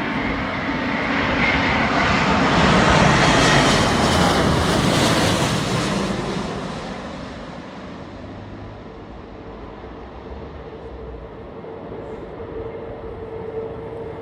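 Wide-body jet airliner passing close on its landing approach. The jet engine noise swells to a peak a few seconds in, then fades, leaving a quieter steady hum.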